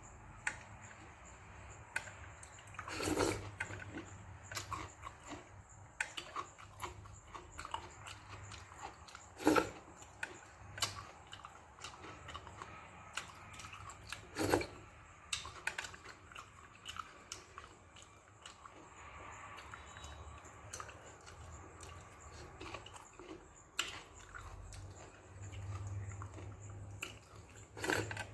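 Close-up chewing and mouth sounds of a person eating soaked fermented rice (pazhaya sadam) with okra stir-fry, with many small wet clicks and smacks. Louder bites or slurps come about three seconds in, near ten seconds, near fifteen seconds and near the end.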